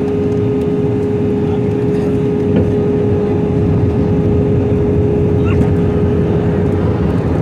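Airplane engine noise: a steady, loud drone with a constant hum running through it.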